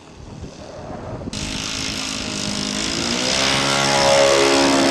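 Model Ryan ST's Saito 125 four-stroke glow engine at high throttle on takeoff, growing louder and rising steadily in pitch as the plane comes closer.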